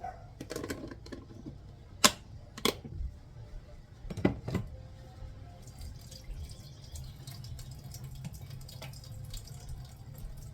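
Kitchen work sounds: two sharp clacks about two seconds in and a heavier knock a couple of seconds later, over faint running and dripping water.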